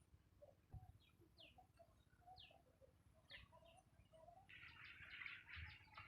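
Faint bird calls: a short, high, down-slurred chirp repeated about once a second, then a busier run of high chattering from a little past the middle.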